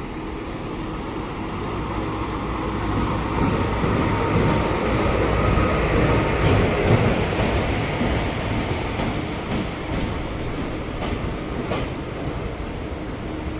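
Passenger express train hauled by a WAP-1 electric locomotive pulling into a station platform: wheels clacking over rail joints with brief high squeals. It grows louder toward the middle as the coaches pass, then eases as the train slows.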